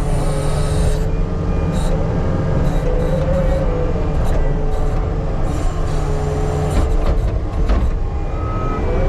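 Heavy-equipment diesel engine running steadily while working dirt, with a slightly wavering whine over the low rumble and a few knocks about seven to eight seconds in.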